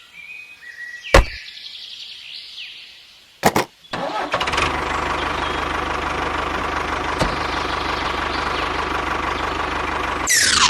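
An engine-like motor sound that starts after a few clicks about four seconds in and then runs steadily, with a low pulsing hum. A bright falling whoosh comes near the end.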